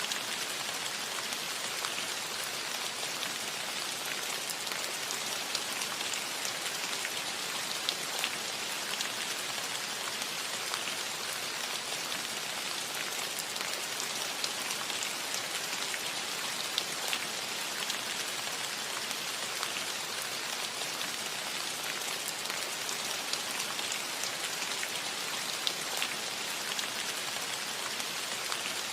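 Steady rain falling on a metal roof: an even hiss of rainfall with many individual drops ticking sharply on the metal.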